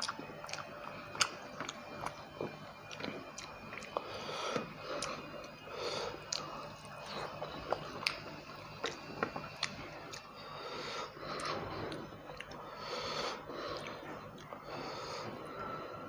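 A person chewing mouthfuls of rohu fish curry and rice, with wet, irregular mouth sounds, many sharp clicks and audible breathing.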